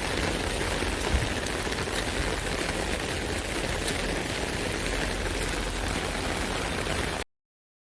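Rain falling on an umbrella canopy, a steady even noise with scattered sharper drop hits. It cuts off suddenly to silence near the end.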